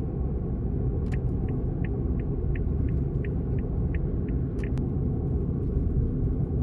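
Car driving, with steady low road and engine rumble. About a second in, a run of about ten short high beeps starts, roughly three a second, lasting a few seconds.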